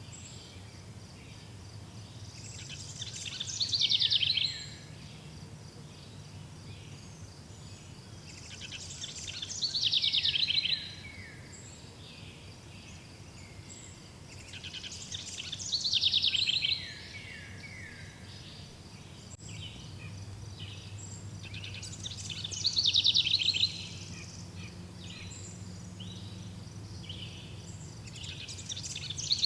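A songbird repeating the same loud song phrase about every six seconds, each a couple of seconds of quick notes that sweep downward, swelling and then stopping abruptly. A steady high pulsing trill and a faint low hum run underneath.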